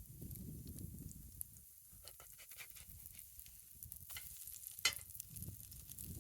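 Campfire crackling and hissing, with scattered sharp pops, the loudest one just before five seconds in, over a low rumble in the first second and a half.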